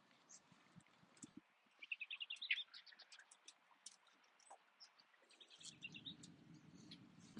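Faint bird chirping: two quick runs of short, high notes, one about two seconds in and another near six seconds, with scattered high ticks between. A low steady rumble starts about five and a half seconds in.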